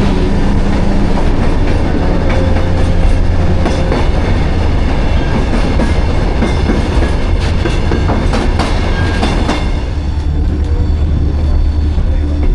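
Passenger train running along the track, heard from aboard: a steady low rumble with the clickety-clack of wheels over the rails, and sharp clicks bunched around the middle.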